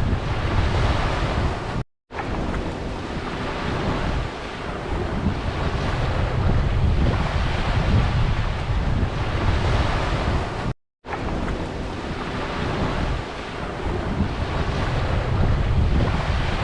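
Ocean surf washing in steadily, with heavy wind buffeting the microphone. The sound drops out suddenly for a moment twice, about two seconds in and again near eleven seconds.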